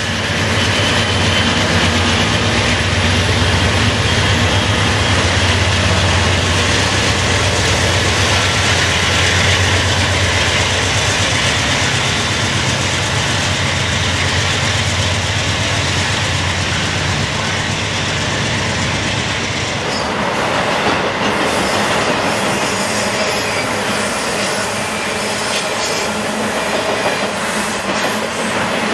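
Union Pacific double-stack intermodal freight train rolling past close by: a diesel locomotive's engine drones low through the first two-thirds, then fades, leaving the steady rumble and clatter of the cars' steel wheels on the rails.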